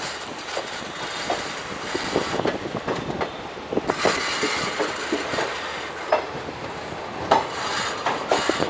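Passenger train running on the rails, its wheels clattering over the track with irregular knocks over a steady rumble.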